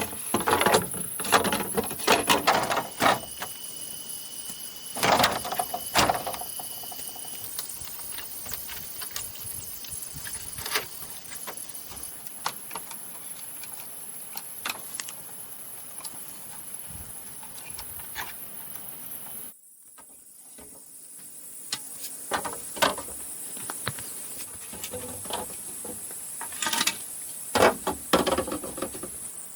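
Forest insects calling steadily in a high, continuous band, over scattered knocks and clicks. About twenty seconds in, the sound cuts out abruptly and then returns.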